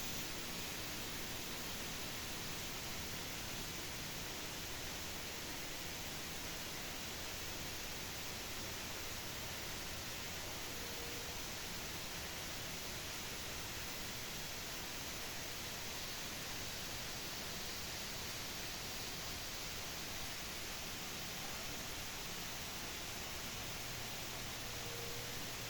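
Steady, even hiss with no changes, with two faint short chirps about halfway through and near the end.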